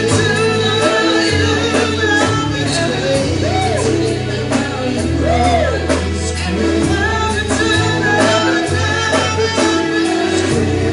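Live gospel worship music: singers over a band with sustained bass notes and a steady beat of drum and cymbal hits.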